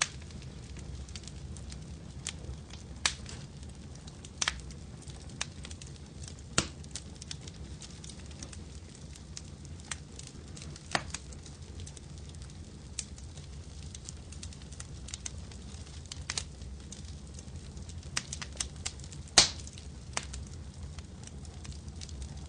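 Wood fire crackling and popping over a steady low rumble, with sharp pops every second or two; the loudest pop comes near the end, amid a quick cluster of smaller ones.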